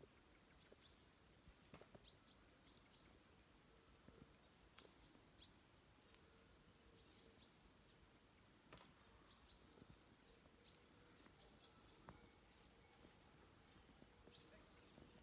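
Faint rural ambience with small birds giving scattered short, high chirps, and a few soft knocks.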